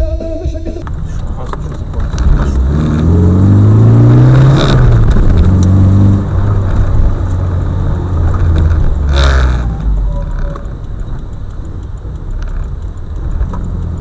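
Road vehicle engine running, its pitch climbing steadily for about two seconds as it speeds up. Two sudden loud noises cut across it, one about four and a half seconds in and one about nine seconds in.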